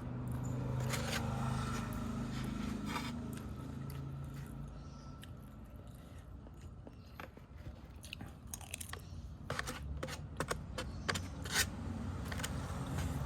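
Crunchy food being bitten and chewed close to the microphone: irregular crisp crunches that come thickest about ten seconds in, over a low steady hum.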